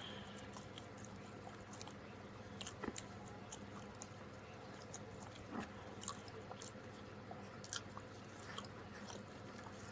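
A person chewing a mouthful of pepperoni pizza close to the microphone: faint, scattered wet mouth clicks, with a couple of louder bites about three and five and a half seconds in.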